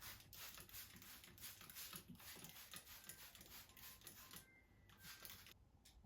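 Faint, soft rustling and handling noises: a string of short, irregular hisses that stop shortly before the end.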